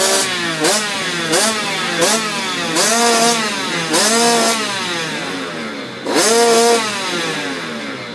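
Motocross bike engine being blipped in quick throttle revs, about six times, pitch rising and falling back to idle between each, the later revs held a little longer.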